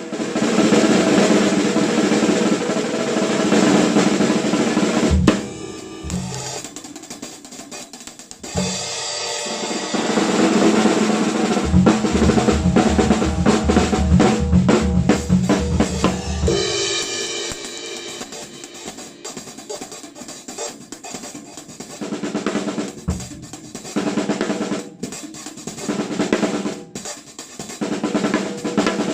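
Drums playing with cymbals among other pitched sounds, loud and busy. The sound thins out twice, about five seconds in and again past the middle, into sparser bursts.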